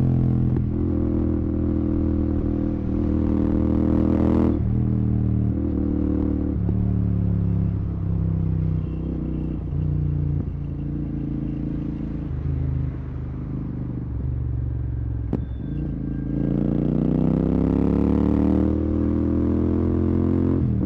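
Royal Enfield Continental GT 650's parallel-twin engine through Red Rooster aftermarket exhausts with the dB killers removed, riding in traffic. The revs rise over the first few seconds, then run lower with the throttle eased and a few short gear changes. They climb again through a shift near the end. A single sharp click sounds about three-quarters of the way through.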